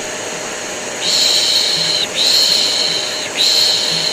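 Repeated shushing, a long 'shhh' about once a second starting about a second in, laid over the steady drone of a vacuum cleaner running: a white-noise mix for soothing a colicky baby.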